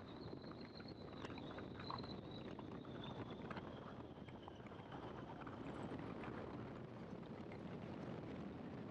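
Great Lakes open-cockpit biplane's engine running steadily in flight, heard faintly with wind noise, with a thin high tone that slowly falls in pitch.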